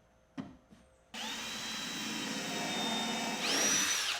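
A small electric power-tool motor starts about a second in and runs steadily with a whine. Its pitch rises sharply near the end, and then it cuts off suddenly.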